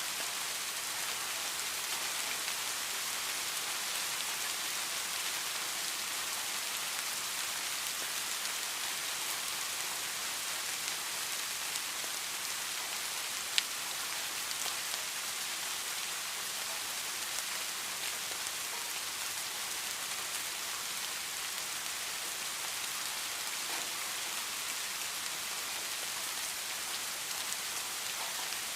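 Heavy rain falling steadily in an even, dense hiss, with scattered drop taps and one sharper drip tick about halfway through.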